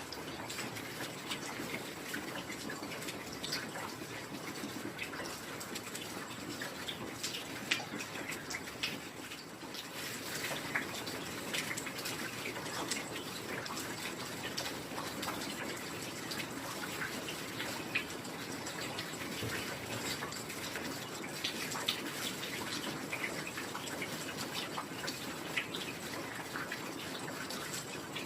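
Steady heavy rain: an even hiss of falling water with many close, separate drop hits scattered through it.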